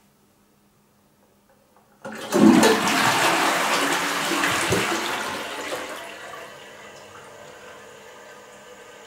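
Toilet flushing: a sudden rush of water about two seconds in, loud for about four seconds, then dying down to a quieter steady hiss of running water.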